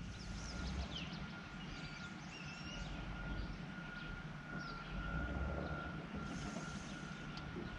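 Birds chirping on and off over a continuous low rumble and a steady thin high whine.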